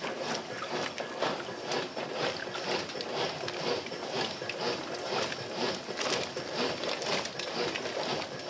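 Brastemp BWL07A top-loading washing machine churning a load in heavily soaped water with its lid off: a steady run of many small, irregular sloshes and splashes.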